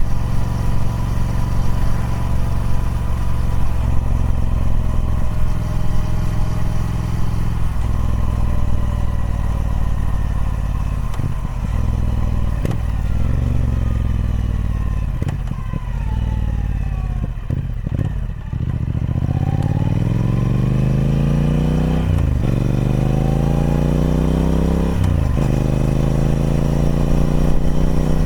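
Triumph Speed Twin 1200 parallel-twin engine through its stock exhaust, ridden: it holds a steady note, the revs fall away for several seconds, then it accelerates hard, the pitch rising through the gears with a sudden drop at each upshift, about two thirds in, a few seconds later, and again near the end.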